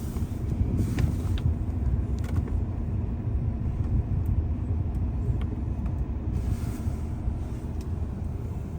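Lincoln Blackwood pickup's 5.4-litre DOHC V8 idling steadily on a cold start, a continuous low rumble with a few faint ticks.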